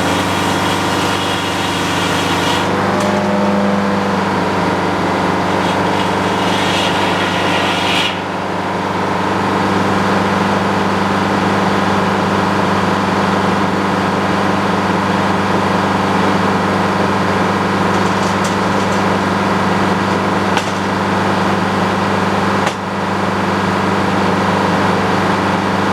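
Engine of a portable sawmill running steadily under load while the blade cuts through a cherry log. A higher hiss in the sound cuts off about eight seconds in.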